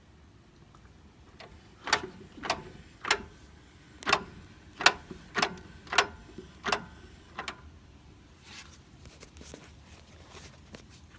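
Mazda 3 clunking: about nine sharp metallic clunks come at uneven half-second to one-second spacing, each with a brief ring. A few fainter knocks follow near the end.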